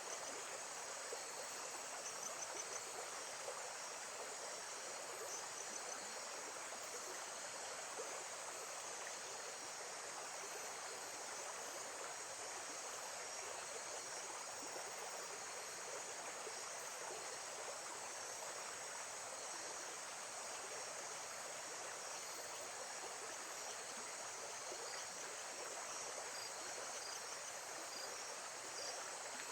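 Lake-side nature ambience: a steady wash of water, with insects chirping in a high, constant band over it.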